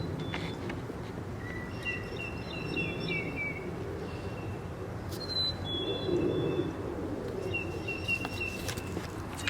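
Small songbirds singing: several phrases of short, high, quickly repeated chirps, over a steady low background hum.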